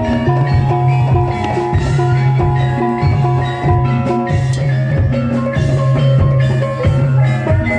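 Gamelan-style music of the kind that accompanies Barongan dance: bronze gong-chime metallophones ringing held, overlapping notes over a deep sustained tone, with regular hand-drum strokes.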